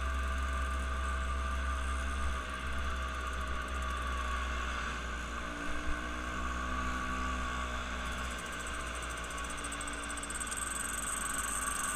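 Steady engine drone with a heavy low rumble and a constant mid-pitched hum, from a running vehicle or boat engine.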